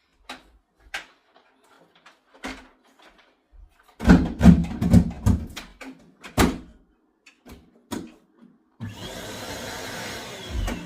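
Scattered knocks and plastic clatter, loudest in a burst of thumps in the middle, then about two seconds from the end a vacuum cleaner motor switches on and runs with a steady whirr.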